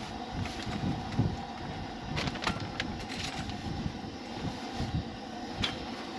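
Wind buffeting the microphone in a fluctuating low rumble, with a few sharp clicks scattered through it.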